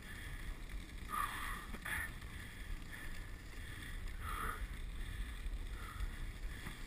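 Dog sled gliding along a snow trail: a steady low rumble of runners on snow, with a few short scraping swishes.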